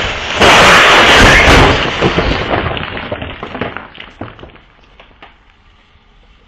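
Car crash: a loud collision with about a second and a half of crunching noise, followed by scattered clicks and clatter of debris that die away over a few seconds.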